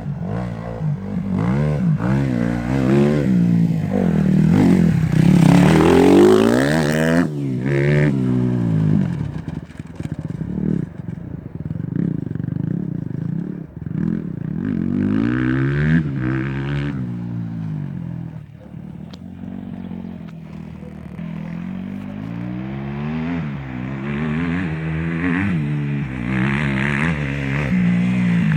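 Husqvarna TE 250's single-cylinder four-stroke engine being ridden, its pitch rising and falling over and over as the throttle opens and closes and the gears change.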